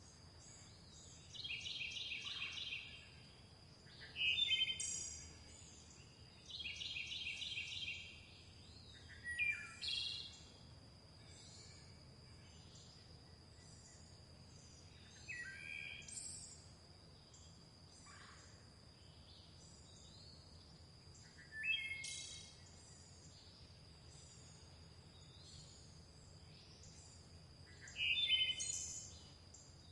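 Several songbirds singing in a natural chorus, with a new phrase every few seconds, including two rapid pulsing trills early on. Faint twittering and a steady high tone run underneath.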